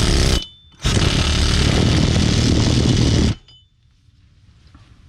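A pneumatic tool runs in two loud bursts, a short one and then one of about two and a half seconds, working on a front hub assembly that is stuck on the car after its bolts are out.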